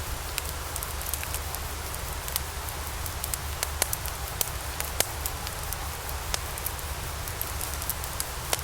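Log fire burning in a fireplace: a steady hiss with many irregular sharp crackles and a few louder pops, over a low rumble.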